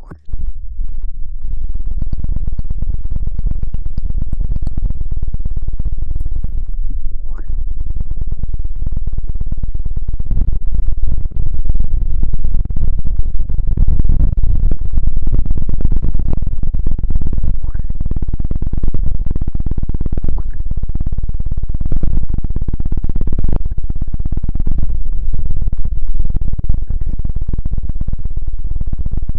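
Loud, dense crackling rumble on the microphone, heavy in the bass and overdriving the mic: an ASMR 'Chidori' trigger meant to imitate crackling lightning.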